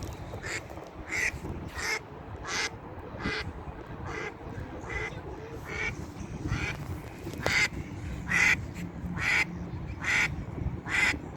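Ducks quacking in a steady series of short calls, about one every 0.7 seconds, over low rumbling wind noise on the microphone.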